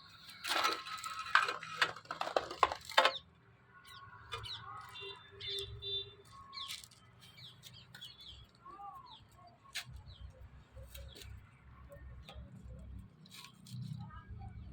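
Small birds chirping with short, scattered calls, after a loud burst of rustling and flapping in the first three seconds.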